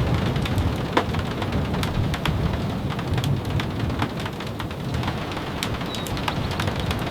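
Steady rain falling, a continuous hiss with scattered sharp taps of drops, over a low rumble.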